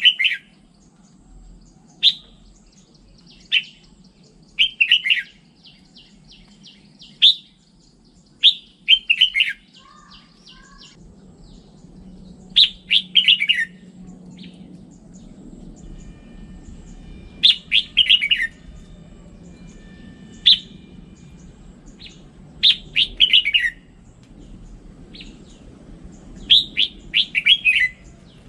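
Red-whiskered bulbul singing short, bright warbled phrases of quick rising and falling notes, one phrase every second or two, with brief pauses between.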